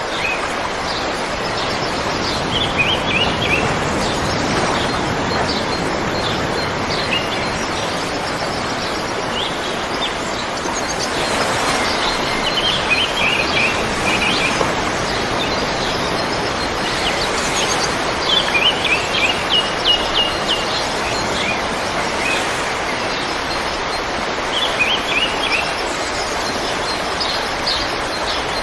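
River water flowing steadily, with small birds chirping in short bursts of quick, high repeated notes several times over it.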